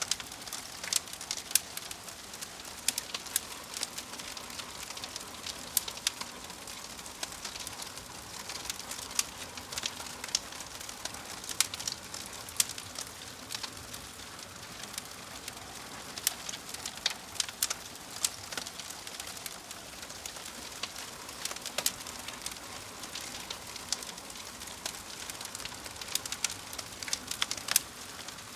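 Wood fire burning in a fireplace: a soft steady hiss scattered with many sharp, irregular crackles and pops from the burning logs.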